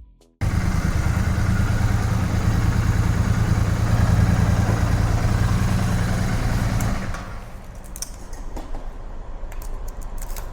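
Royal Enfield Bear 650's 648 cc parallel-twin engine running steadily, then cut off about seven seconds in, leaving quieter background noise with a few light clicks.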